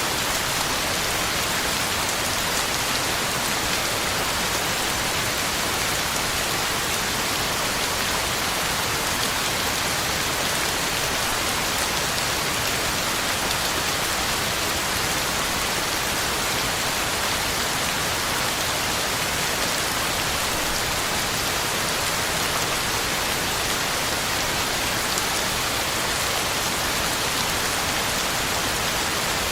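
Heavy rain falling steadily, drops hitting the ground and leaves in an even, unbroken hiss.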